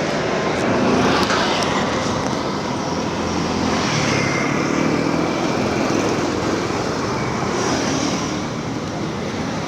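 Street traffic: a steady wash of motor vehicles running and passing, with some engine hum.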